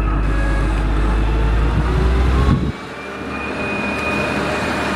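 Caterpillar 140H motor grader's diesel engine running with a heavy, steady rumble. A little past halfway the deep rumble cuts off abruptly, leaving a quieter, thinner engine sound with a faint high whine that slowly builds back up.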